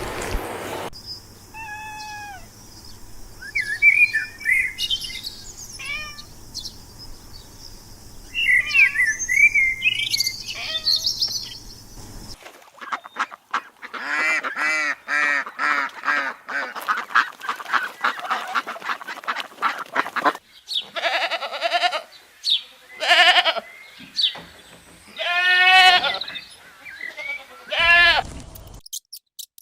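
A sequence of animal calls: first a bird's scattered chirps and whistles, then a fast run of short repeated honking calls, then several long wavering bleats.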